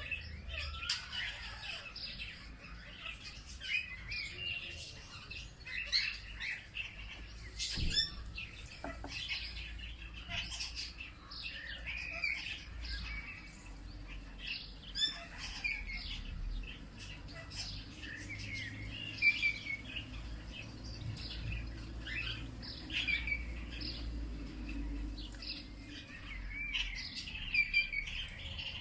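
Several birds chirping and singing, many short calls overlapping, over a low steady rumble. A sharp click about eight seconds in.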